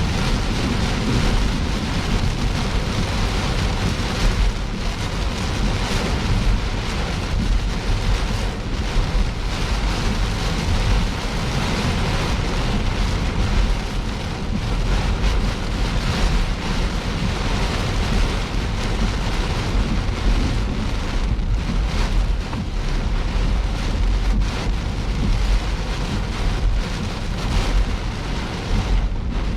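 Steady rain falling on a moving car during a thunderstorm, with a constant low road and wind rumble underneath.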